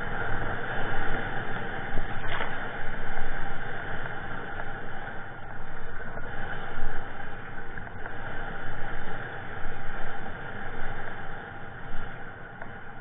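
Strong gusty wind blowing across the microphone on open, choppy water: a continuous rushing noise that swells and drops every second or so, easing off near the end.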